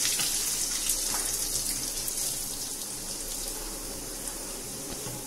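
Semolina sizzling in hot ghee in a pan as it starts to roast and is stirred with a wooden spoon. It is a steady hiss that slowly dies down.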